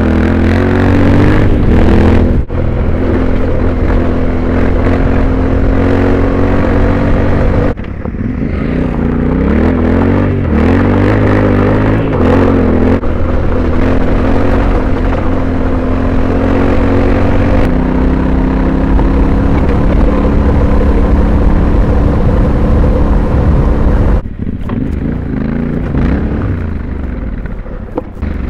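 Yamaha Ténéré 700's parallel-twin engine running under way on a gravel track, its pitch rising and falling with throttle and gear changes, over wind and gravel noise. The sound changes abruptly a few times.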